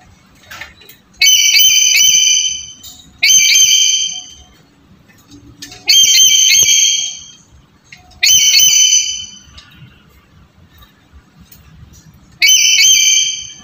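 Black-capped lory calling: five loud, high-pitched calls, each about a second long with a sharp start and separated by quiet gaps of one to three seconds.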